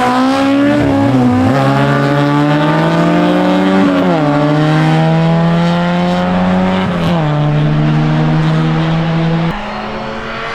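Rally car engine accelerating hard through the gears: the pitch climbs in each gear and drops sharply at upshifts about a second and a half, four and seven seconds in. Near the end it gets quieter and lower.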